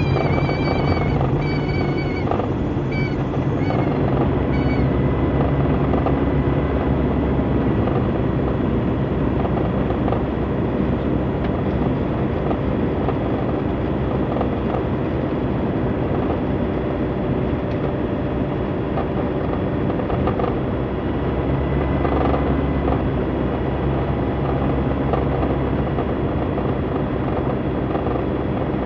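Small aircraft's engine running steadily, a constant drone with a low hum, with a few brief wavering whistling tones in the first few seconds.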